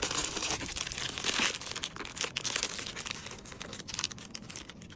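Packaging crinkling and rustling as items are handled and packed, with many small crackles, busiest in the first half and easing off toward the end.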